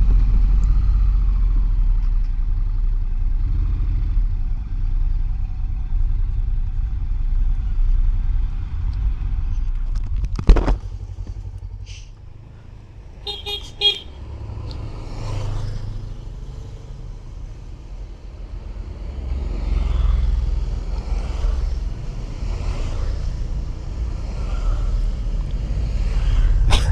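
Motorcycle engine running and wind noise on the move, with a sharp knock about ten seconds in and a brief horn toot a few seconds later. Other motorcycles pass in the second half.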